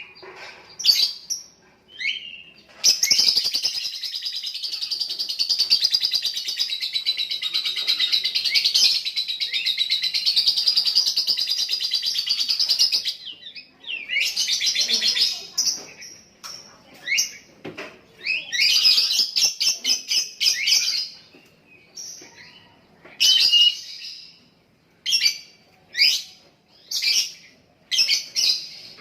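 Lovebird chattering: one long unbroken run of rapid high chirps lasting about ten seconds, the 'ngekek' song, then shorter chattering bursts with brief pauses between them, breaking into a string of short bursts near the end.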